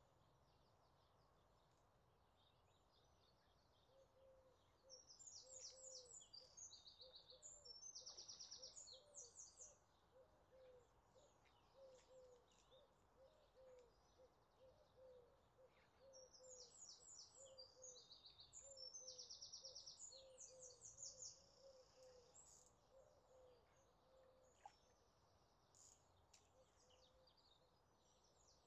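Birds singing: a high, rapid trilling song comes twice, each burst about five seconds long, a few seconds in and again near the middle, over a lower bird note repeated a few times a second, on a faint outdoor hiss.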